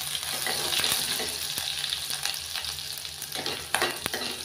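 Chopped garlic and green chillies sizzling steadily in hot mustard oil in a steel kadai while a metal spoon stirs them. The spoon clicks against the pan a few times near the end.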